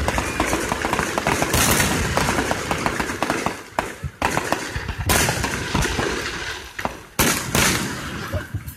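Aerial fireworks going off: a dense run of rapid crackling reports, with louder bangs about four, five and seven seconds in.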